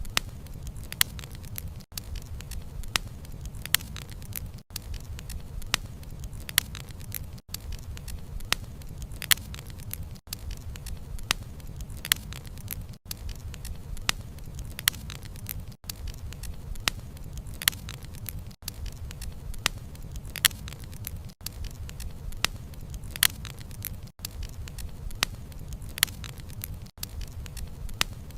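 Campfire burning with a steady low rumble and frequent sharp crackles and pops from the burning wood. Very brief dropouts in the sound come roughly every three seconds.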